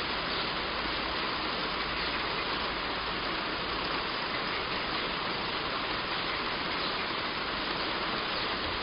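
Heavy rain falling steadily on a roof: a dense, even hiss of countless drops with no let-up.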